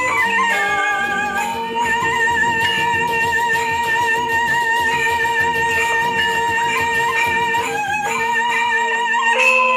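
Traditional Balinese music: a held, wavering melody over a steady lower drone note, played on a flute or bowed-string instrument.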